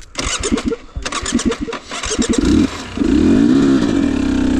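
Husqvarna TE250i two-stroke dirt bike engine blipped in choppy bursts, then revved up about three seconds in and held high, as the bike struggles stuck in mud.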